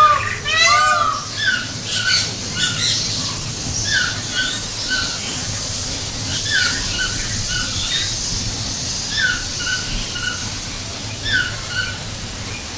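A bird calling in short groups of two or three chirps, repeated about every two seconds, over a steady hiss of background noise.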